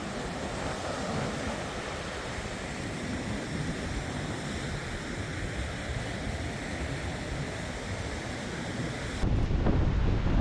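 Surf breaking on a sandy beach, a steady rush of waves. About nine seconds in it switches abruptly to louder, low wind buffeting on the microphone.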